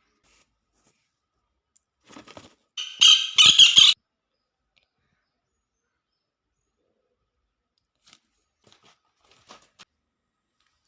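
A woodpecker calling: a short quieter call, then a loud, harsh, rattling call lasting about a second. A few faint ticks follow later.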